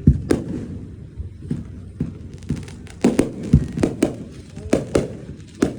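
Fireworks going off in an irregular string of sharp bangs and pops. The deepest booms come right at the start and about three and a half seconds in.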